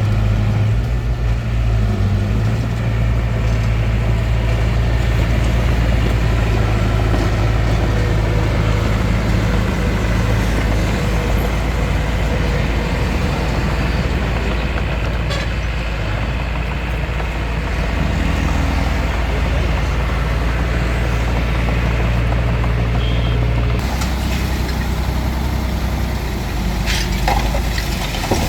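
Hitachi DX45M bulldozer's diesel engine running steadily under work, its pitch shifting about 24 s in, with a few clanks near the end.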